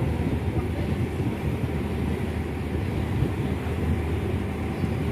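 Steady low rumble of a large passenger ship's engines during departure.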